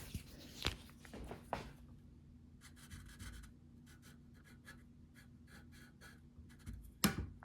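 Writing a measurement onto a steering column part: many short, quick pen strokes on the surface, faint. A few clicks early on and one sharp knock about seven seconds in, the loudest sound.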